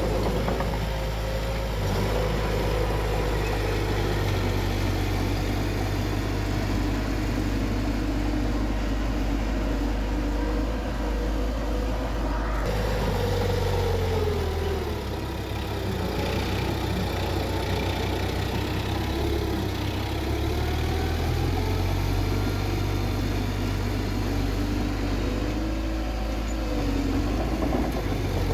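Bulldozer's diesel engine running steadily, its pitch rising and falling now and then as the engine speed changes while it works.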